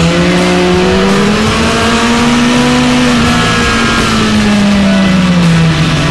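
Kawasaki ZX-9R's inline-four engine pulling at speed from the rider's seat, its pitch rising slowly over the first couple of seconds and dropping off near the end as the throttle eases, with wind rush over it.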